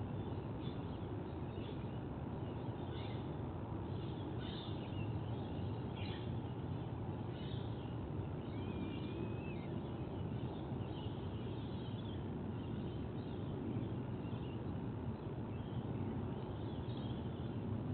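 Steady low rumble of outdoor air noise with scattered short bird calls and chirps throughout, and one longer wavering call about nine seconds in.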